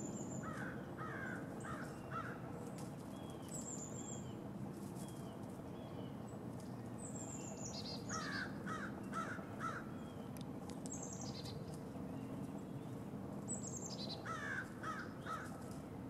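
Wild birds calling: three series of four or five short calls, each series about a second and a half long, with thin high notes sliding downward between them.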